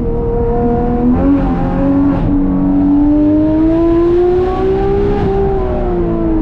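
Porsche 991.2 GT3 RS's flat-six, fitted with Dundon street headers and a catless "crack pipe" exhaust, under way on the road. The revs jump at a shift about a second in, climb slowly, then fall away about five seconds in as the throttle eases.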